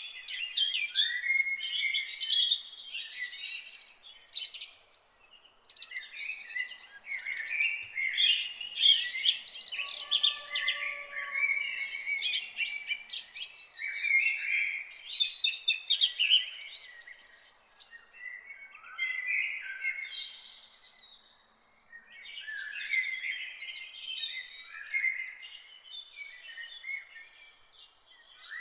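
Morning chorus of several songbirds singing at once: dense, overlapping chirps, trills and whistled phrases with only brief lulls, and a fainter, lower call about ten seconds in.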